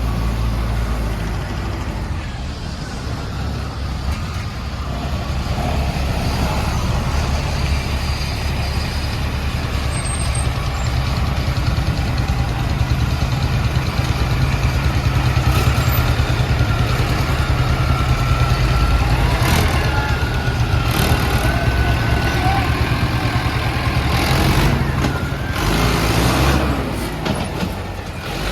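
Mahindra Arjun 555 tractor's diesel engine running steadily under load, pulling a loaded trolley. It grows louder about a quarter of the way in, and a few knocks and rattles come in the second half.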